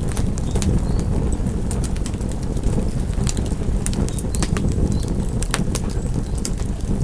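Wood fire crackling: irregular sharp pops and snaps, several a second at times, over a steady low rumble of the burning fire.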